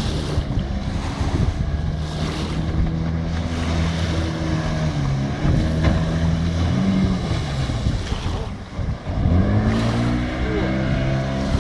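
Outboard motor pushing a motorboat, running steadily with water and wind noise. About eight seconds in the revs drop briefly, then rise again.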